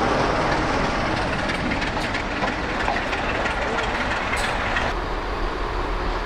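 A train moving along the track, with a steady noise of wheels and rolling stock and a few faint clicks.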